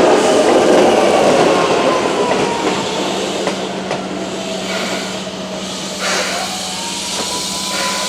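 Keihan electric train pulling out of the station. Its running noise on the rails fades as it moves away, with a thin motor whine that falls in pitch, and another whine rising about six seconds in.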